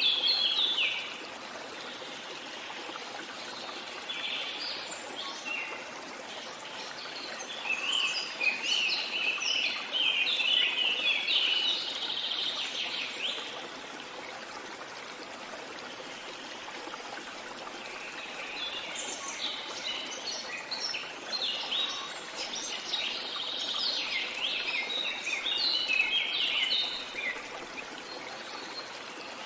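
Songbirds singing in bursts of rapid, high chirping phrases over a steady rush of flowing water, like a stream. The birdsong comes in several spells, the longest near the middle and towards the end, with quieter stretches of water sound between them.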